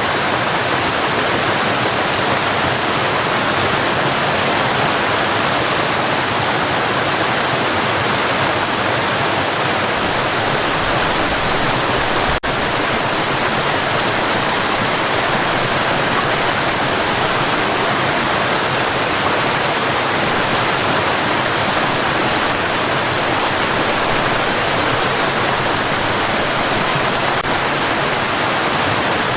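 Steady white noise for sleep: an even rushing hiss, unchanging throughout, with a momentary dropout about twelve seconds in.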